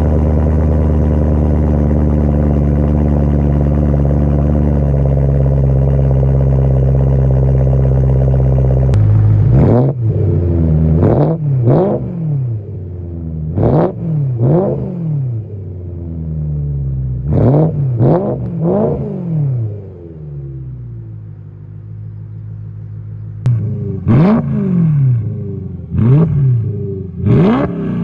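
BMW M3's 4.0-litre V8 with its muffler deleted, idling steadily and loud for about nine seconds, then revved in a series of quick blips that rise and fall back. It settles to idle for a few seconds before more rapid blips near the end.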